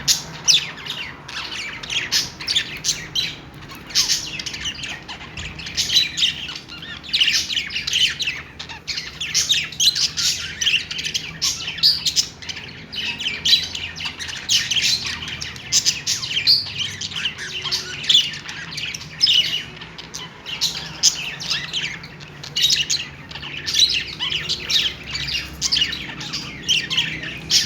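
Budgerigars chattering and warbling: a continuous stream of quick chirps, squawks and twittering notes, the contented chatter of happy budgies.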